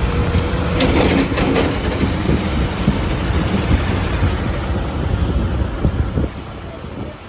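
Low rumbling noise of a vehicle on the move, with a few knocks about a second in; it eases off after about six seconds.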